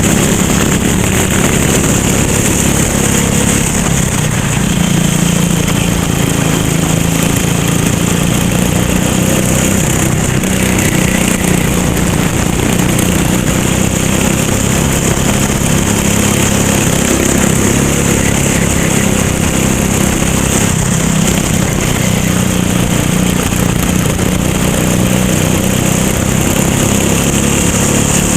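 Racing kart engine running steadily with little change in pitch.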